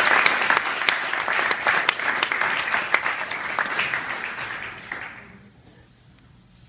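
An audience applauding, loud at first and dying away about five seconds in.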